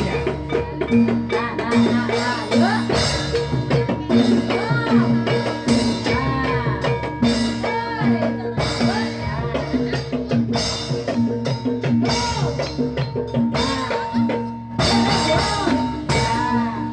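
Jathilan accompaniment music: a Javanese percussion ensemble with hand drums and gong-chime or metallophone notes, playing a steady repeating rhythmic pattern.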